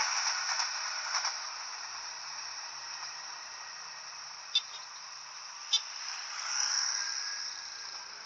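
The rushing rattle of a passing train fading away, leaving a steady high-pitched chirring of insects. Two sharp clicks come about halfway through.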